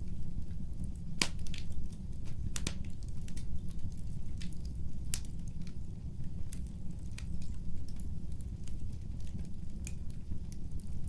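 Wood fire burning: a steady low rumble of flames with irregular sharp crackles and pops of burning logs, a few louder snaps among them.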